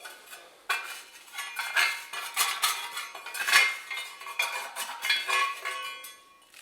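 Slag being scraped out of a pellet stove's metal burn pot: a quick run of gritty metal-on-metal scrapes with some ringing, starting about a second in. The slag crust is being cleared because it blocks the air holes that feed the fire.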